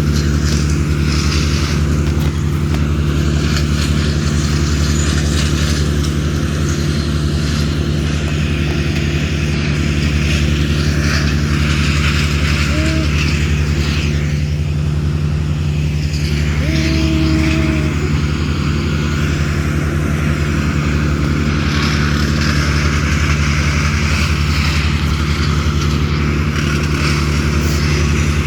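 An engine running steadily at a constant speed, with two short higher-pitched tones partway through.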